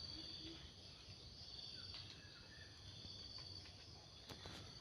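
Faint, steady high-pitched chirring of insects in the surrounding vegetation, with brief breaks, and a couple of faint short bird chirps about two seconds in.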